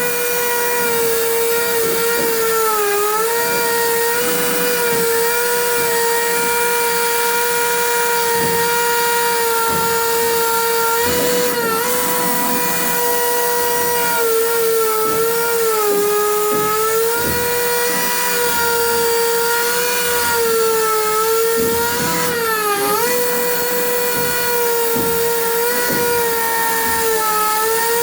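Electric power tool motor running with a steady high whine. The pitch sags briefly a few times as the tool is loaded in the cut, with scattered knocks underneath.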